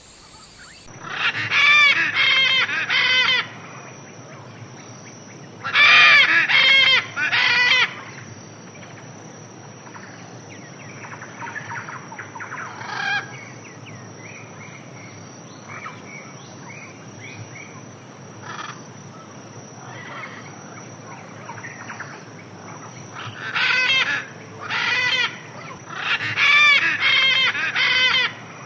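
Loud bird calls in groups of three or four, a second in, about six seconds in and again near the end, with fainter bird chirps between them. A steady high-pitched insect trill runs underneath.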